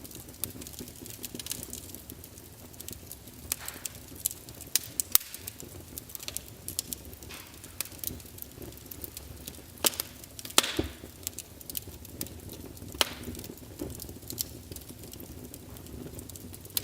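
Wood fire of burning logs crackling, with sharp irregular pops and snaps over a low steady rumble of flame; a few louder pops about four, five and ten seconds in.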